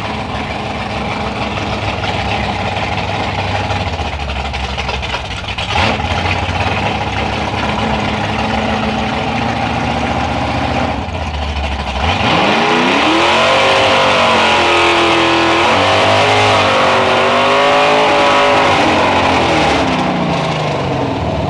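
Drag car engine rumbling at low revs on the strip, then about twelve seconds in it launches at full throttle, the engine note climbing and dipping several times as it shifts through the gears, and easing off near the end.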